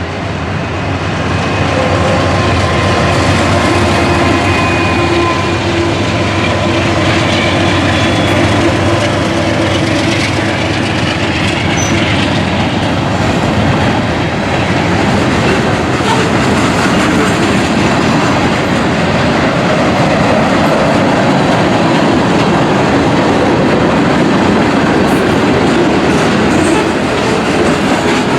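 Freight train rolling past, its steel wheels clacking over the rail joints in a steady din, with faint thin squealing tones in the first half.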